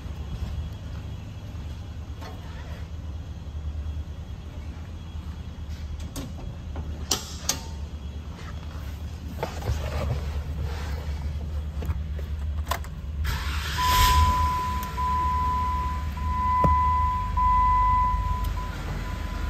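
2012 Jeep Wrangler Unlimited's 3.6-litre V6 idling, heard from the cabin, with a few sharp clicks and knocks around the middle. Near the end, a high electronic warning chime sounds in a run of roughly one-second tones.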